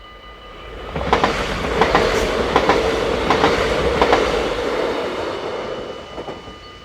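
A train passes over the level crossing. Its running noise rises from about a second in, with wheels clicking over the rail joints, then fades away near the end. The crossing's warning bells ring steadily throughout.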